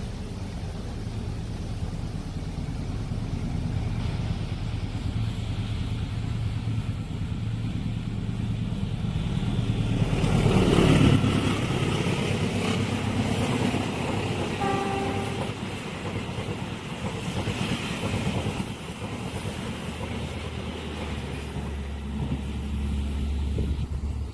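Diesel passenger train passing at a level crossing: a steady low engine rumble that builds to its loudest about ten to eleven seconds in, then the carriages roll by. A short horn toot sounds about fifteen seconds in.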